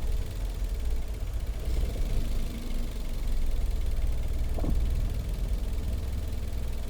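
Manual car's engine at idle lugging under load as the clutch is let out in fifth gear from a standstill, a steady low rumble; without throttle the car won't pull away in such a tall gear.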